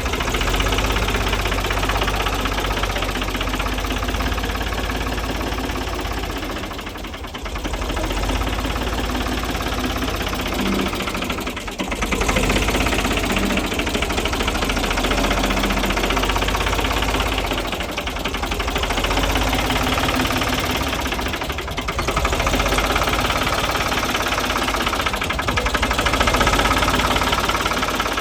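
A 1968 Ford 3000 tractor's three-cylinder diesel engine running steadily with a diesel knock. Its level dips briefly several times.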